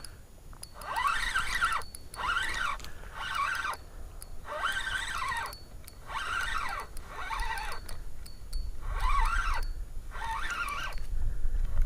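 Fishing reel squeaking over and over while a hooked fish is reeled in, one rising-and-falling squeak about every second.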